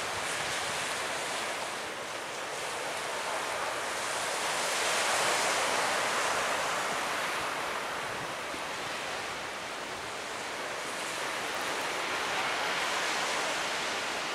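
Surf breaking on a beach, a steady wash of waves that swells twice, with some wind.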